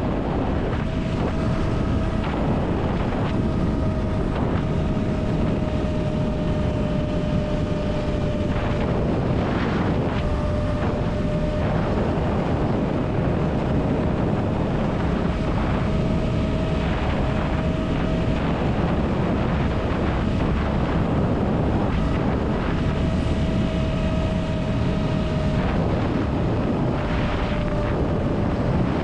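Motorcycle engine running at a steady cruise, with a steady engine note and wind rushing over a helmet chin-mounted microphone.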